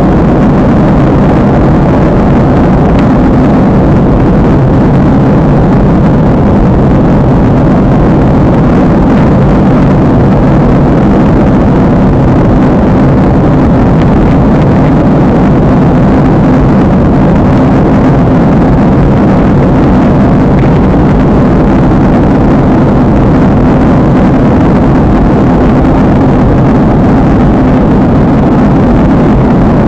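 Steady, loud roar of a jet airliner's engines and airflow, heard from inside the passenger cabin in flight, unchanging throughout.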